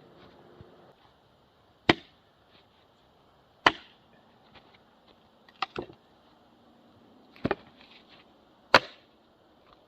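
Sharp wooden knocks of Douglas fir firewood being worked: five hard clacks, roughly two seconds apart, the third and fourth each doubled.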